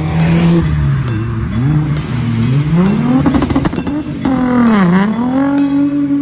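Car engine revving, its pitch rising and falling several times: highest about three seconds in, dipping sharply near five seconds, then climbing again and holding.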